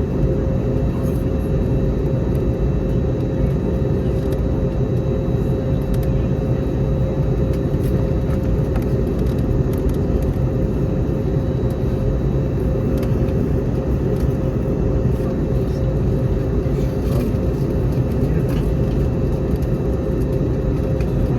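Airbus A321neo cabin noise in flight: a steady low roar of engines and airflow, with a constant hum tone running through it.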